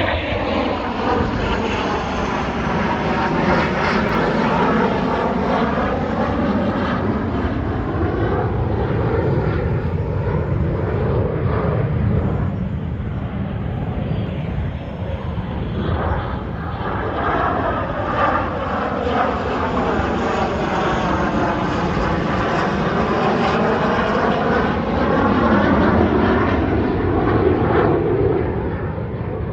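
A loud, steady engine drone that starts suddenly, with a slowly swirling, phasing quality as it drifts in pitch.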